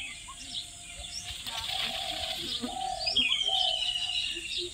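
Small birds chirping and twittering, with a longer, level call near the end and a few short, lower repeated notes in the middle.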